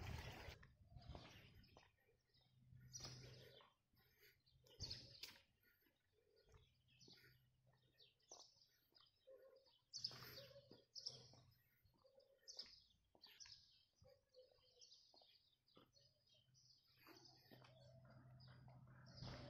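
Faint birds chirping outdoors, with short calls scattered throughout, over a low steady hum.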